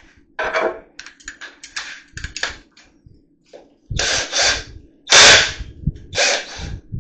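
Hand-tool work on plaster and lath: a run of short knocks and clicks, then three louder, half-second scrapes about four, five and six seconds in.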